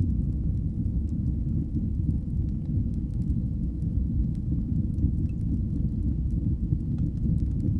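Wood fire burning: a steady low rumble with faint, scattered crackles.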